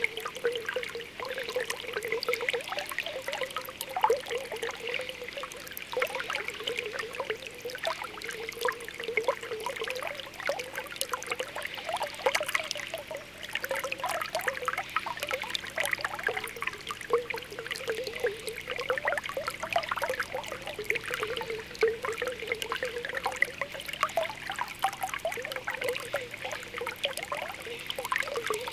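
Spring water welling up from the ground, bubbling with a continuous stream of small quick pops and gurgles.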